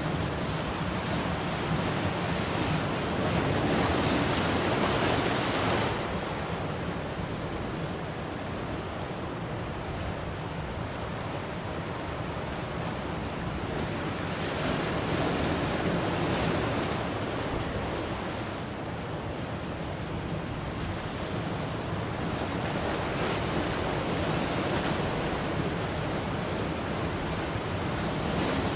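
Ocean waves breaking and washing on a shore, a continuous rush of surf that swells and ebbs. The loudest surge comes a few seconds in and drops off abruptly about six seconds in, with gentler swells about halfway through and near the end.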